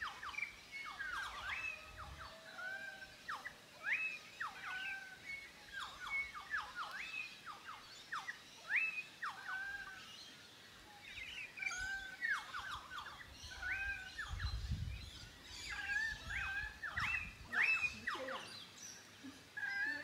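Australian rainforest birds calling: a busy chorus of short whistled and chirping notes, many sweeping sharply up or down, with several birds overlapping.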